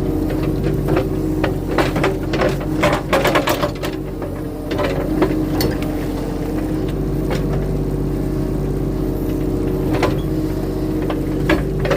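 Diesel engine of a skid steer running steadily under work. Sharp knocks and cracks come thick between about one and four seconds in, with a few more later, as roots are torn out of the ground.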